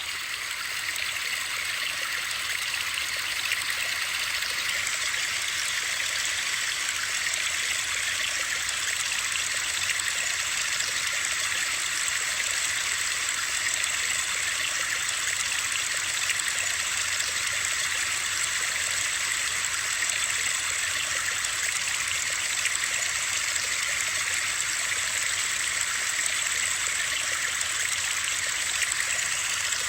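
Steady white-noise hiss, high-pitched with almost no low rumble, cutting in suddenly at the very start and then holding even throughout.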